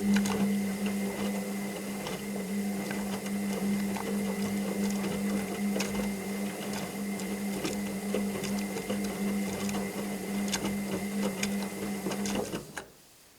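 Washing machine running a stretch of its cycle: a steady motor hum with many small clicks and rattles, which stops abruptly near the end.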